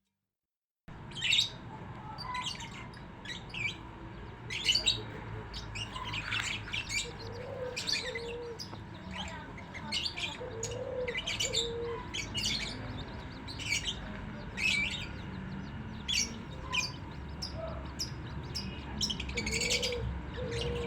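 Birds chirping: many short, high calls repeating irregularly, with a few lower calls in pairs, starting about a second in after a brief silence.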